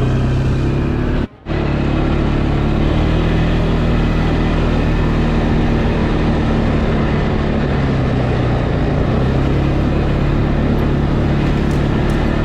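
Small off-road vehicle's engine running at a steady pace while riding along a rough trail, over a rushing noise of wind and ground. The sound cuts out for a split second about a second in.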